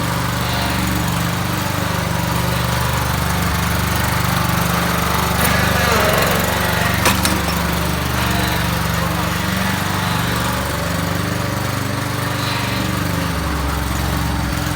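Husqvarna 23 hp lawn tractor engine running steadily, with a brief louder spell about six seconds in and a single sharp knock about a second later.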